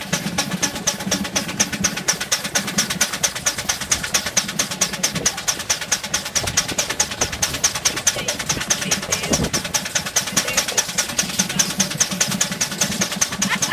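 Ruston Proctor miniature steam traction engine on the move, its exhaust chuffing in a rapid, even beat.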